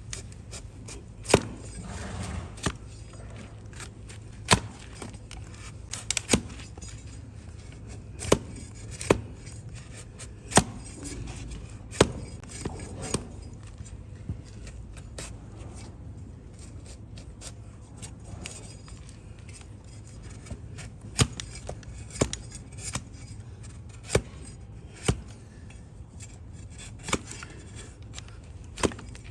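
Hoof-trimming blade cutting into a donkey's overgrown hoof: sharp, crisp cuts and snips at an uneven pace, sometimes a second apart, sometimes with pauses of several seconds.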